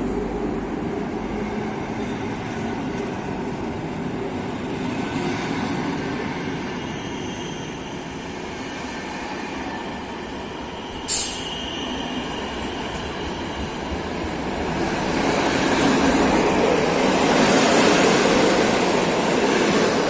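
A train running past on the rails, a steady rumble and rush, with one brief sharp high sound a little over halfway. The sound swells louder over the last few seconds.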